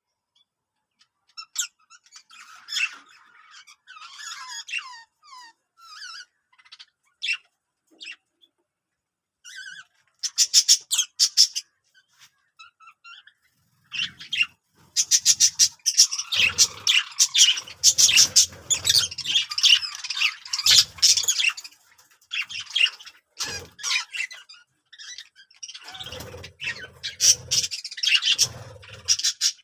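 Budgerigars chirping and warbling in quick, scratchy chatter, sparse at first and then louder and busier from about halfway through.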